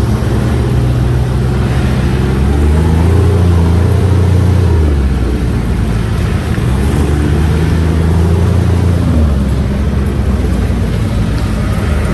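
UTV engine running while the vehicle is driven, its pitch rising and falling a couple of times as the throttle is opened and eased off.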